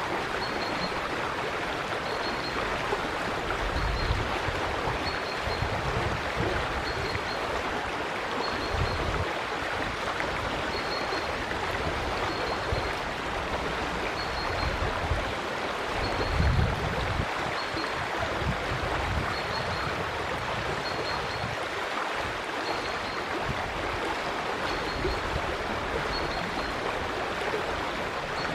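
River water flowing steadily, a constant rushing, with a faint high chirp repeating about every second and a half and a few brief low rumbles.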